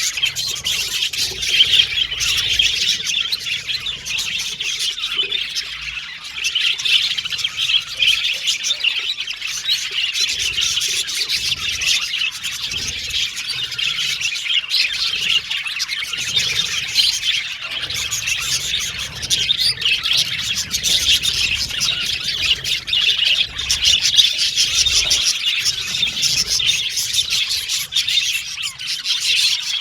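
A flock of budgerigars chattering and warbling, with a dense, continuous stream of rapid chirps and squawks.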